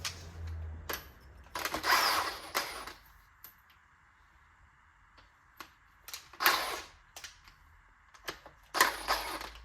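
Metal clicking and clinking from hand tools and bolts as the vernier cam pulleys on a C20XE engine are bolted on, in three short spells.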